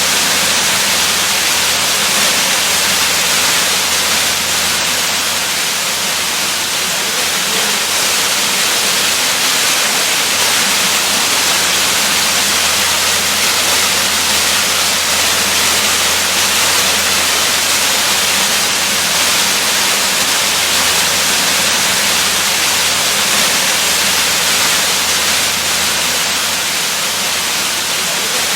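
Waterfall rushing in a steady, unbroken hiss, strongest in the upper range, with a faint low hum beneath.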